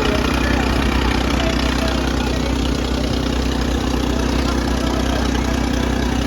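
Diesel farm tractor engine running steadily, an even low drone at constant speed.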